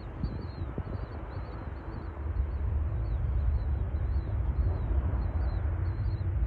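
Low, steady rumble of a distant jet airliner's engines, growing a little louder about two seconds in, with small birds chirping in a rapid, high twitter over it.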